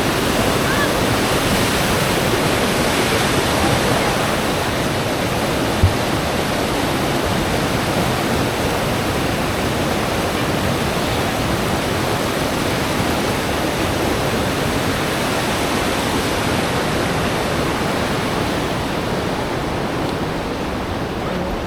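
Waterfall rushing steadily, a loud even wash of falling water. A single brief knock sounds about six seconds in.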